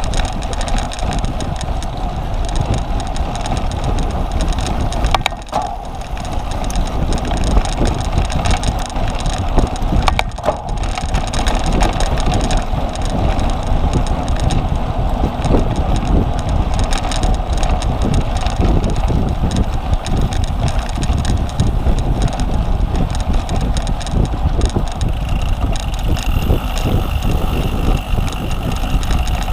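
Wind rushing over the microphone of a camera on a cyclocross bike being raced, with the bike's rattles and small knocks as it rides over rough ground.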